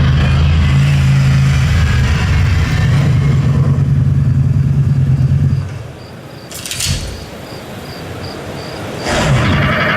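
Motorcycle engine running steadily, played back from a promotional video over a hall's speakers. It drops away about halfway through, there is a brief sharp whoosh about seven seconds in, and the engine sound comes back near the end.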